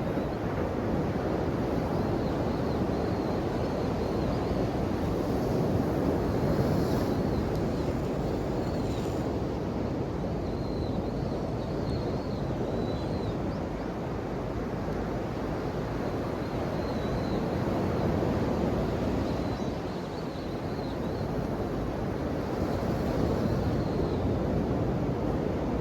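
Ocean waves breaking and washing ashore: a steady rush of surf that swells and eases over several seconds, loudest about a quarter of the way in and again later on.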